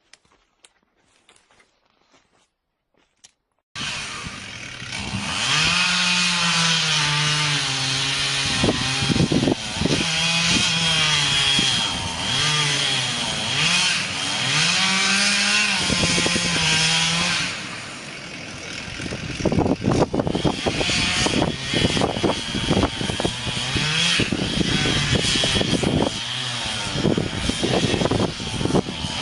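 Near silence with a few faint clicks, then, starting abruptly a few seconds in, a two-stroke chainsaw cutting wood, its engine note rising and falling as it revs and bogs under load. In the second half the cutting turns rougher, with many rapid crackles and knocks.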